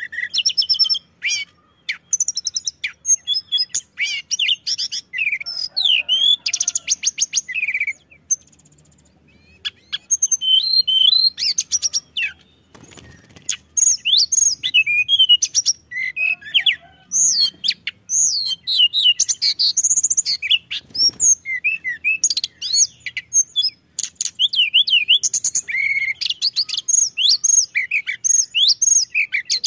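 Tledekan gunung songbird singing a fast, dense song of varied sweeping chirps and trills, with a short pause about eight seconds in.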